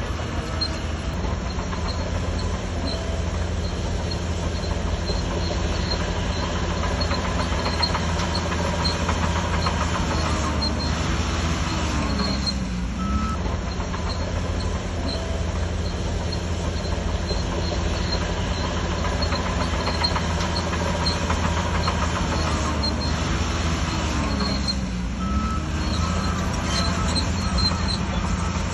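Diesel engine of a Shantui DH17C3 bulldozer running steadily under load. Its pitch dips and climbs back twice, about twelve seconds in and again near twenty-five seconds.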